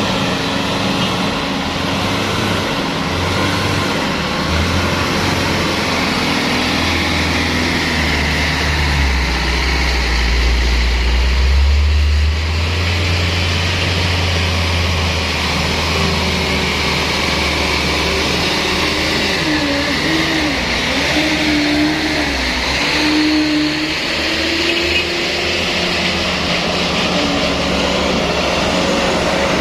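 Truck engine running under load, a steady rumble whose pitch wavers up and down, rising and falling a few times about two-thirds of the way through.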